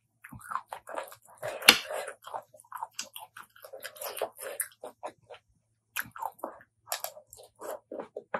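Close-miked wet chewing and lip smacking while eating apple snail salad: a dense run of irregular short smacks and clicks, with one sharp, louder click a little under two seconds in and a short pause past halfway.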